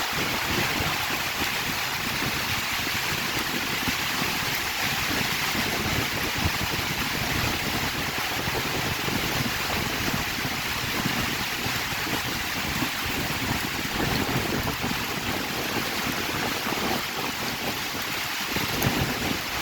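Heavy rain falling steadily in strong, gusting wind, the gusts buffeting the microphone in uneven low rumbles.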